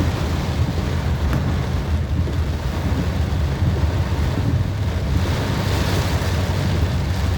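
Wind rumbling on the microphone over a motorcycle's road noise while riding in heavy rain, steady throughout, with a hiss that swells briefly about five seconds in.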